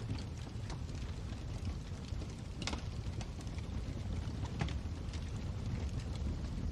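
Wood fire burning in a fireplace: a steady low rumble of flames with scattered crackles, two of them louder pops.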